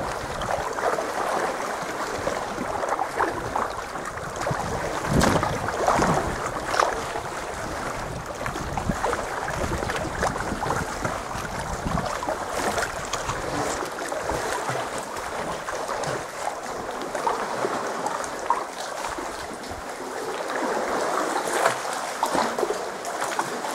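Sea water sloshing and lapping around a sea kayak, with a few louder splashes about five to seven seconds in.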